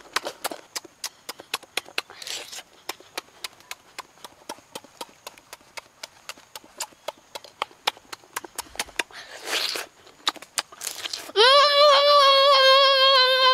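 Close-up eating sounds as roasted shrimp is chewed: quick wet smacking and crunching clicks, several a second, with a few short breathy bursts. Near the end a loud, long held, high-pitched voice sound begins.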